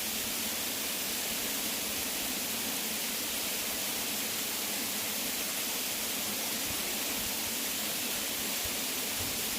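Waterfall: water pouring and splashing in an even, unbroken rush, mostly a bright hiss with little low rumble.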